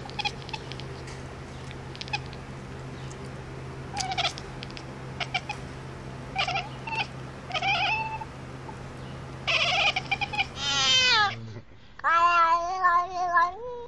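A cat meowing: short scattered cries, then two longer wavering yowls near the end, the first falling in pitch. A steady low hum runs underneath until shortly before the last yowl.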